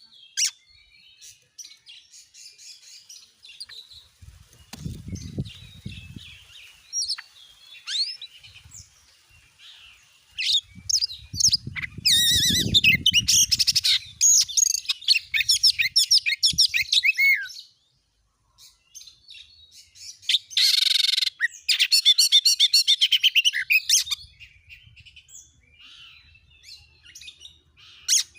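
Oriental magpie-robin (kacer) singing in full, aggressive form, in rapid, loud, trilled 'nembak' bursts, the kind of song used to provoke other magpie-robins into singing. The song switches between quieter varied chirps and whistles and two long loud runs of fast repeated notes, one around the middle and one near the end, with a short harsh rasping call just before the second run.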